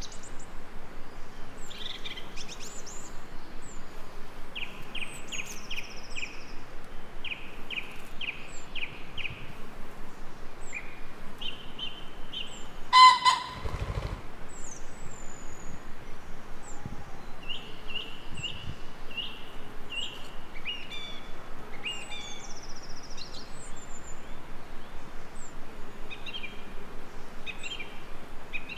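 Several songbirds singing and calling over a steady background hiss: fast runs of repeated notes, thin high whistles and short chirps. About 13 seconds in, one louder, harsher call stands out.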